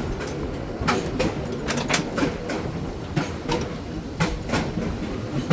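Wooden 1926 Wason-built electric trolley car rolling along the track, heard from aboard: a steady rumble with frequent, irregular clicks and knocks from the wheels over the rails and the car body rattling.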